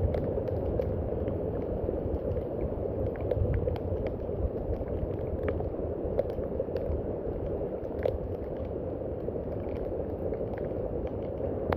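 Steady rain falling, an even wash of noise with many scattered sharp drop ticks.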